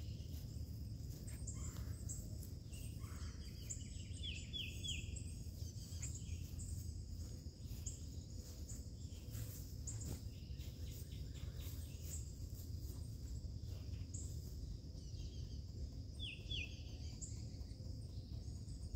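Birds chirping and calling outdoors, in short high notes and quick little runs, over a steady low background rumble.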